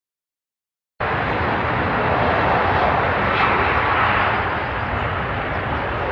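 Steady jet aircraft engine noise, starting abruptly about a second in and running loud and even, without distinct bangs.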